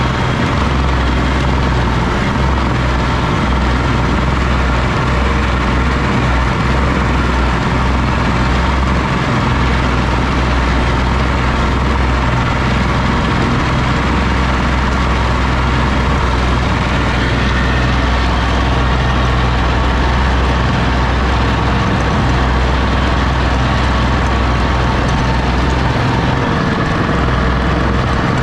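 Oliver OC-6 crawler tractor's engine running steadily at an even speed.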